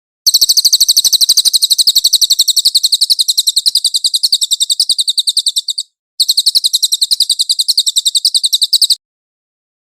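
Cililin songbird singing a rapid, high-pitched trill of about a dozen notes a second, in two long runs with a short break about six seconds in, ending abruptly.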